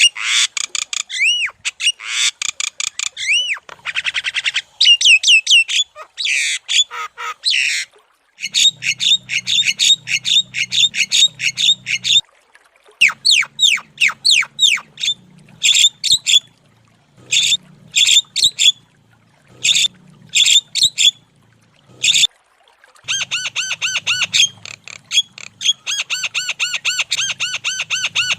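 Javan myna (jalak kebo) singing a loud, chattering song. Fast series of short squawky notes, each falling in pitch, come in bursts with brief pauses, turning into a dense run of rapid repeated notes near the end.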